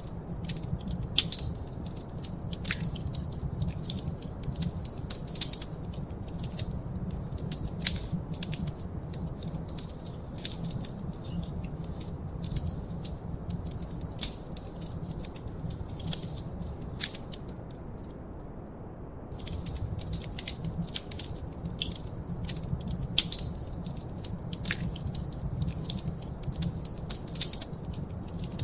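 Wood fire crackling in a fireplace: frequent sharp pops and snaps over a steady low rumble of flames. The crackling stops for about a second around two-thirds of the way through, then resumes.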